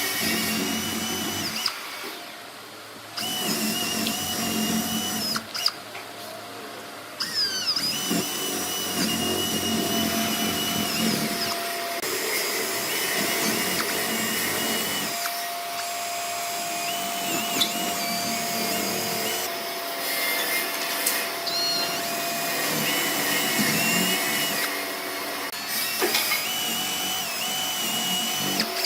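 Electric power tool running, with a steady motor whine and two short pauses in the first seven seconds.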